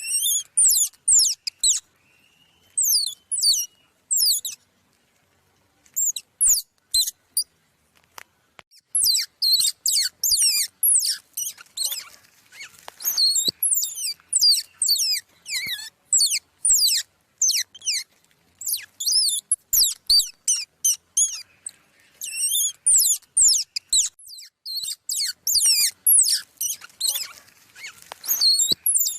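Small songbirds chirping and giving chip calls: quick runs of high, sharp, downward-sliding notes with short pauses between, and a few faint taps among them.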